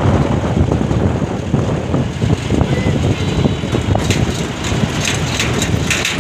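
A vehicle's engine and road noise, a steady low rumble, with light rattling from about four seconds in.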